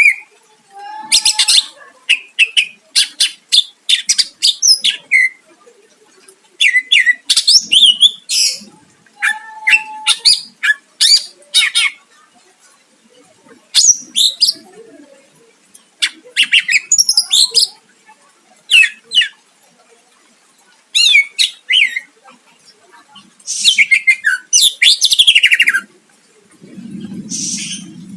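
Greater green leafbird (cucak ijo) singing a loud, varied song of sharp whistles and rapid chattering phrases, broken by short pauses.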